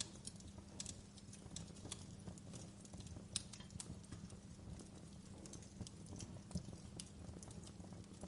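Wood fire crackling: irregular sharp pops and snaps, several a second, over a steady low rumble, with the loudest pop about three and a half seconds in.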